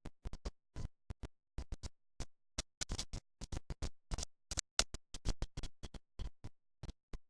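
Choppy, broken-up audio: dozens of short snatches of sound, each a fraction of a second long, cut apart by dead silences, the sign of a recording with constant dropouts.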